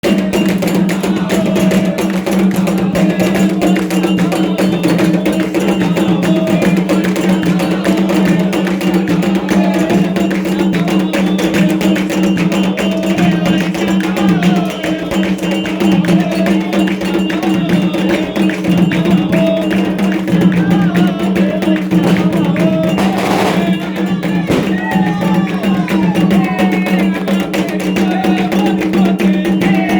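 Afro-Brazilian ritual music: continuous drumming with a sharp wooden or bell-like percussion beat and voices chanting over it.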